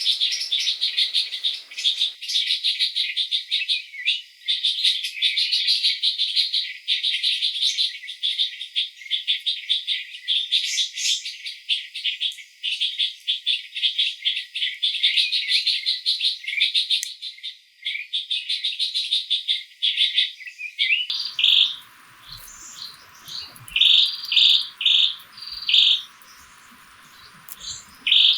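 Birds chirping: dense, fast chatter for most of the time, giving way about three quarters of the way through to separate short repeated calls.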